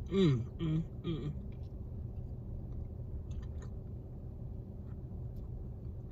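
A woman's three short murmured vocal sounds, falling in pitch, then quiet chewing of McDonald's french fries with a few faint mouth clicks, over a steady low rumble.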